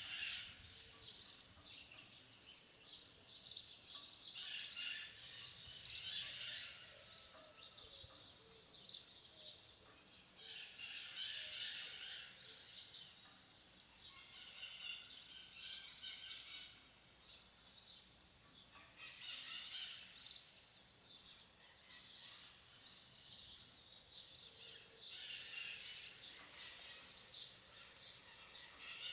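Birds chirping in repeated bouts, each a couple of seconds long and returning every few seconds, over a faint steady background.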